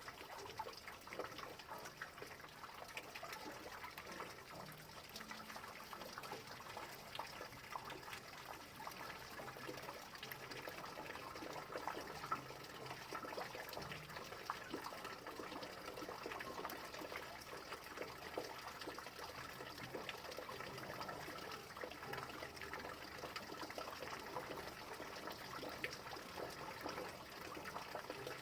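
Steady rain: many small drop ticks over an even wash of falling water.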